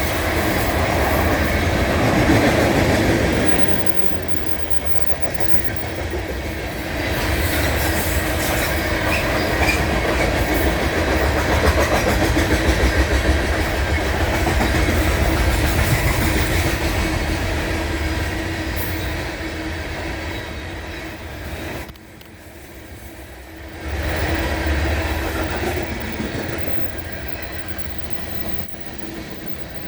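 BNSF coal train's freight cars rolling past at speed: a steady rumble of steel wheels on rail with a constant hum and clickety-clack over the rail joints, dipping briefly about two-thirds of the way through before picking up again.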